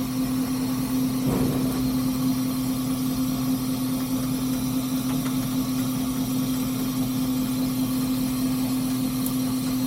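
Steady mechanical hum in the cab of a three-truck Shay steam locomotive standing still, with one constant low tone.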